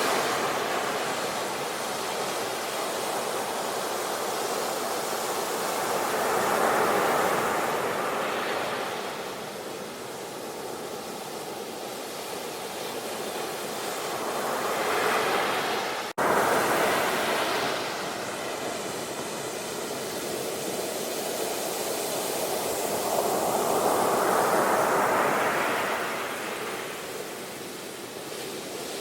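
Sea waves breaking and washing up the shore in slow surges, swelling and ebbing about every eight to ten seconds. The sound cuts out for an instant about halfway through.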